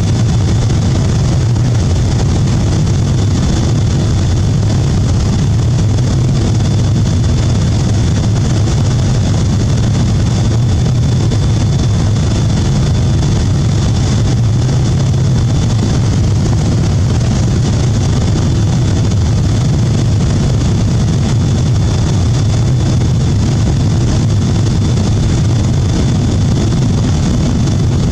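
Steady cabin noise inside a Boeing 777-200 in flight: the low rumble of engines and airflow, with a faint high whine that stops a little past halfway.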